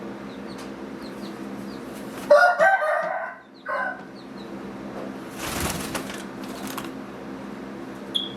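Gamefowl rooster crowing once, about two seconds in, for about a second and a half. A few seconds later comes a short rustling burst, like feathers or wings.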